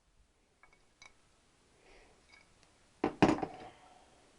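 Metal engine parts being handled on a workbench: a couple of faint clicks, then a sharp metallic clatter about three seconds in as a part is knocked or set down.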